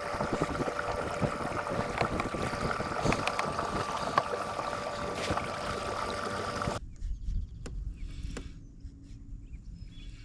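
Kayak on the water: a steady hiss with an even hum and scattered ticks that cuts off abruptly about seven seconds in, giving way to a quieter low rumble with a few ticks.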